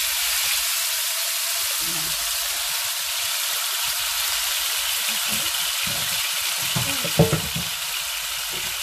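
Soy-marinated beef sizzling steadily in hot cooking oil in a pan, with a short knock about seven seconds in.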